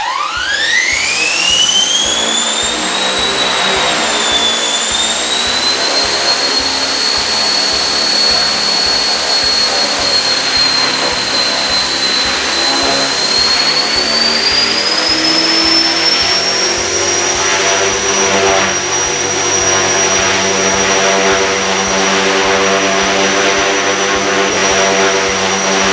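Align T-Rex 470L electric RC helicopter spooling up: the whine of its brushless motor and rotors climbs steeply over the first few seconds, then runs steady, stepping up once more in pitch about fourteen seconds in.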